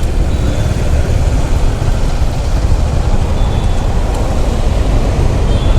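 Motorcycle riding slowly through heavy city traffic: a steady low engine and road rumble with surrounding traffic noise.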